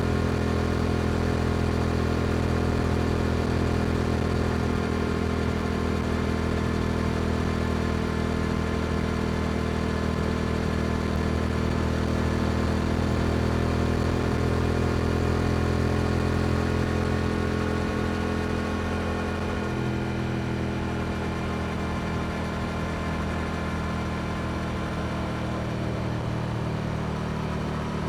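Yamaha R7's parallel-twin engine through an Akrapovic exhaust, running at steady cruising revs under way. About two-thirds of the way through, the note drops a little as the revs ease.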